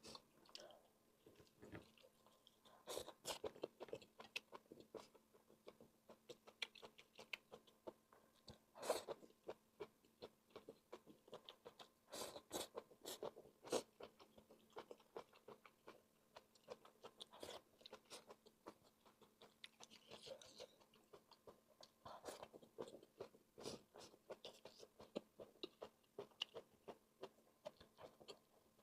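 A person chewing and biting mouthfuls of fried rice and sausage: many short, irregular mouth clicks and smacks, with louder bites here and there.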